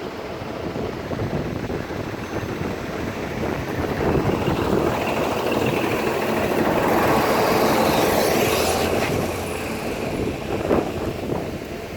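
A large vehicle, likely a school bus, drives past close by. It grows louder to a peak past the middle, with a faint high whine, then fades away.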